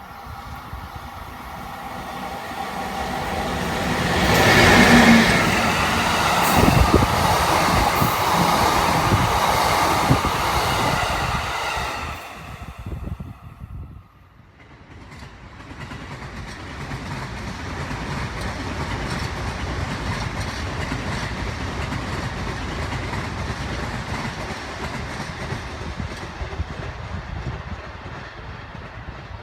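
A JR East electric commuter train passing at speed: the noise builds to a peak about five seconds in, stays loud, then falls away around twelve seconds. Soon after, a second, quieter steady rumble of train running noise starts up and carries on.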